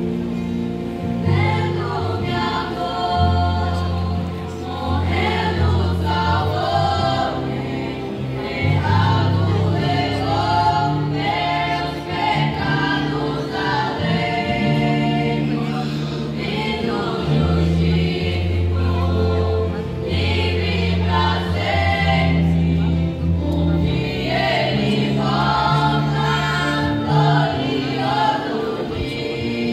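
Voices singing together in a Christian worship song over instrumental backing, with long held bass notes that change every couple of seconds.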